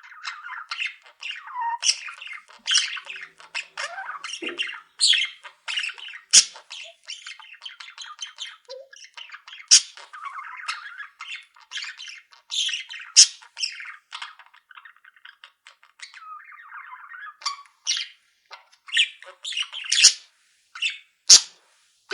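A flock of pet budgies chattering and warbling without pause, with loud, sharp squawks and chirps breaking through every second or so.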